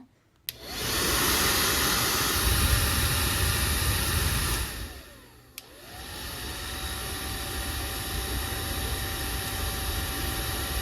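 Wazor 3rd Generation low-noise hair dryer switched on with a click and running with a steady rush of air. About five seconds in it winds down, a switch clicks, and it spins back up to run at a lower, quieter setting.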